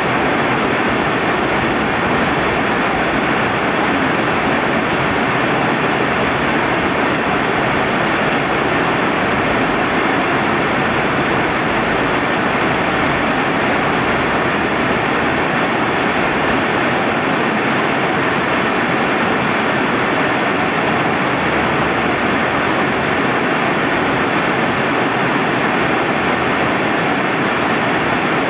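Steady heavy rain at a riverbank with the river running, a dense, even hiss that does not change.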